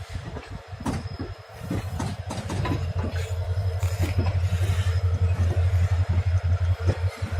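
Train running on the rails: a low rumble that grows louder about two seconds in and then holds steady, with many quick clicks of the wheels over the track.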